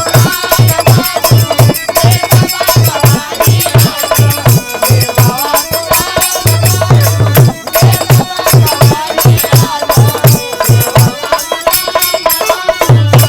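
Instrumental interlude of Bhojpuri birha folk music: a hand drum playing a fast, even beat under a bending melody line, with jingling, clicking percussion over the top.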